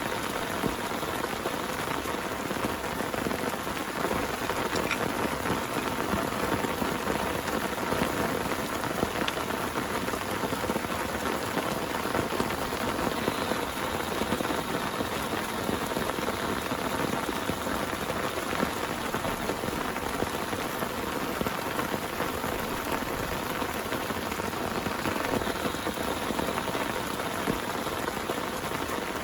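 Heavy rain pouring steadily, a dense even hiss of drops on surfaces with scattered individual drop ticks.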